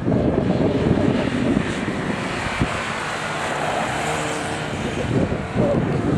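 A hatchback competition car's engine at high revs, loud as the car accelerates through a bend and past.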